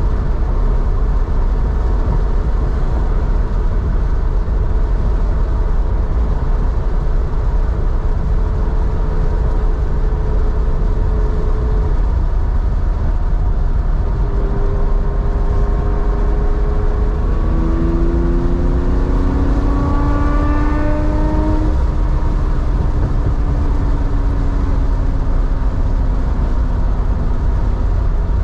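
Porsche 911 3.4-litre flat-six through a two-into-one muffler, driving: a steady low exhaust drone, with the engine note rising as it accelerates from about halfway through, then easing off slightly after about three-quarters of the way.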